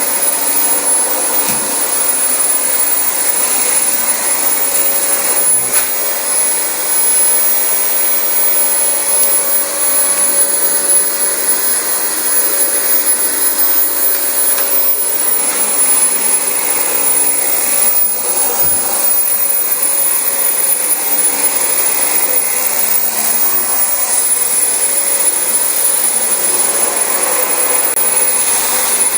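Dyson DC25 bagless upright vacuum cleaner running steadily over carpet: an even rushing noise with a thin high whine.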